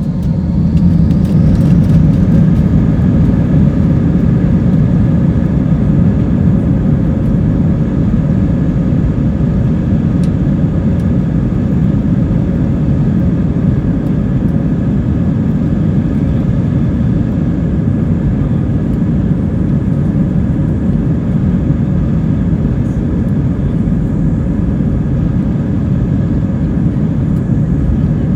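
Airbus A320's jet engines at takeoff thrust heard from inside the passenger cabin: a loud, steady rumble with faint steady tones above it, swelling to its loudest a couple of seconds in and then holding a little lower.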